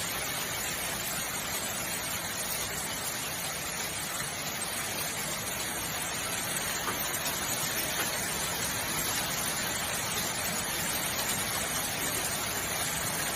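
A steady, even rush of heavy precipitation falling, with no separate impacts standing out.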